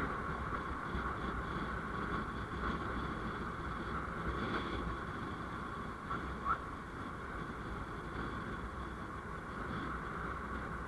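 Steady road and traffic noise from a vehicle on the move, with a low rumble and an even hiss, and a brief high chirp about six and a half seconds in.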